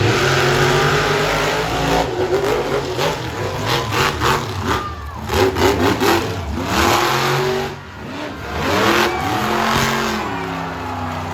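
Monster truck's supercharged V8 engine revving hard, its pitch sweeping up and down over and over as the throttle is worked.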